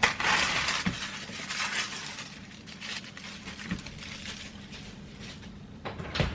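A hissy rustle for about two seconds, then a few light knocks and clinks as things are handled in a kitchen.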